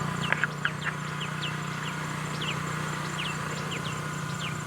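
Birds chirping: many short, quick chirps scattered throughout, over a steady low hum.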